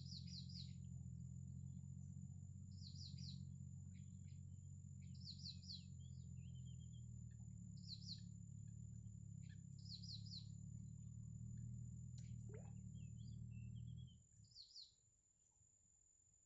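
Bird chirping in quick bursts of three or four high falling notes every two to three seconds, with a few softer twittering trills between. Under it a low steady hum cuts off near the end.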